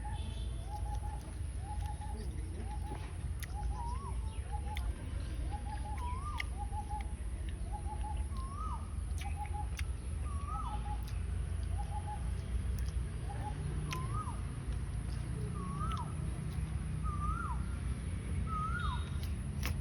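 Birds calling repeatedly: quick three-note calls at first, then rising-and-falling whistled calls about once a second in the second half. Under them run a low rumble, a steady high-pitched hiss and scattered faint clicks.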